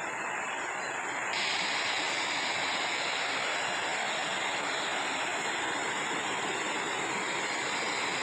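Running creek water, a steady rushing hiss that turns louder and brighter about a second in.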